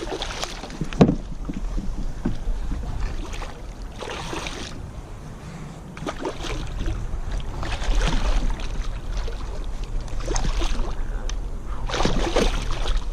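Water splashing and knocking around a kayak while a redfish is fought beside it, with one sharp knock about a second in. Wind buffets the microphone throughout.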